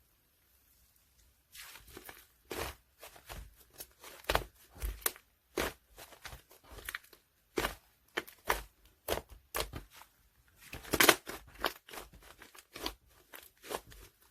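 White clay slime being squeezed and pressed by hand, giving irregular crackling clicks and pops. It starts about a second and a half in, and the loudest crackles come about eleven seconds in.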